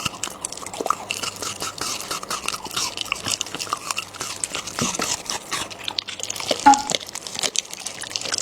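A Shiba Inu chewing and crunching on a raw crocodile tail, a run of irregular bites and crunches. A brief higher-pitched sound, the loudest moment, comes about two-thirds of the way through.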